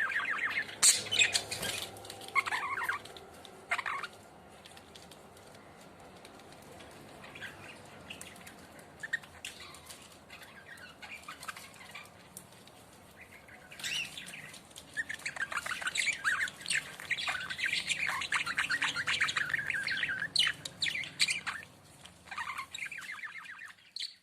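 Budgerigar chirping and chattering in quick runs of high chirps, with a quieter lull of scattered soft chirps in the middle.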